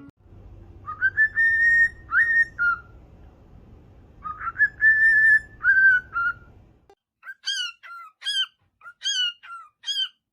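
A parrot whistling: two long, held whistled notes with a short dip between them, then a quick run of short chirps, each falling in pitch, repeated about once every three quarters of a second.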